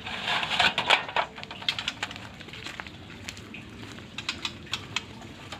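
A white-rumped shama moving about a cage: a flurry of wing flaps and scrabbling in the first second or so, then scattered sharp taps of the bird hopping on perches and wire.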